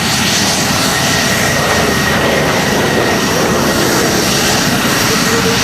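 Aircraft engines running loud and steady as planes fly over an air show, a dense roar with no breaks.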